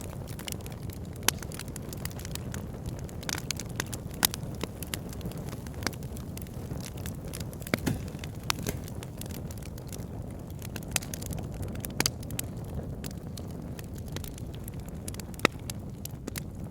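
Wood fire burning in a fireplace: a steady low rush of flame with frequent irregular crackles and sharp pops from the burning logs.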